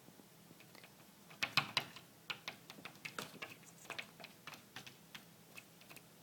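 An irregular run of light clicks and taps, loudest about a second and a half in and thinning out toward the end: a house cat's claws and paws tapping against window glass.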